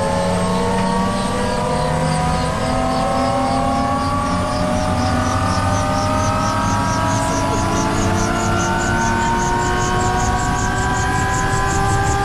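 Huey helicopter's turbine engine spooling up after start, its whine rising steadily in pitch, with a rhythmic pulsing from the main rotor that quickens and grows stronger as the rotor comes up to speed.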